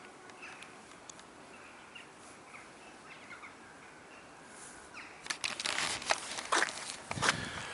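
Faint short bird chirps over a quiet outdoor background, then from about five seconds in a run of sharp clicks and rustling.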